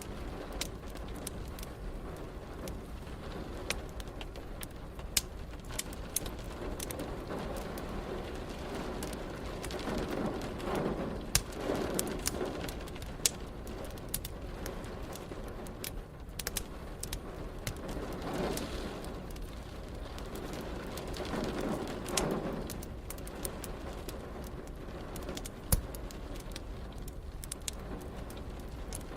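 Fireplace crackling with frequent sharp pops, over a steady bed of rain noise. A few low swelling sounds rise and fade midway, and a single loud pop stands out near the end.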